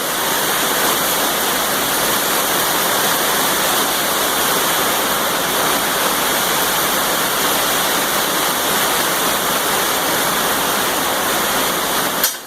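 Arc welder tacking steel plate: a steady, loud frying hiss of the arc that cuts off suddenly near the end when the arc is broken.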